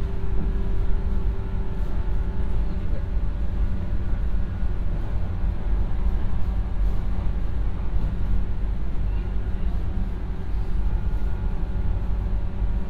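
Interior running noise of a JR 115-series electric multiple unit at steady speed: a continuous low rumble of wheels on rail with a steady hum of the running gear, heard from inside the carriage.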